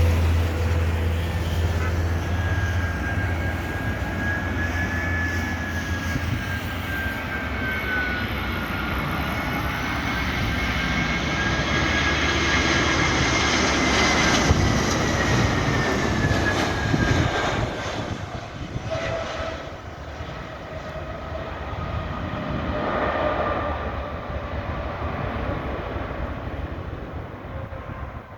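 Airbus A320 jet engines passing on landing approach: a roar with a high whine that slowly shifts in pitch. It builds to its loudest about fourteen seconds in, falls away after about eighteen seconds, and swells again briefly around twenty-three seconds.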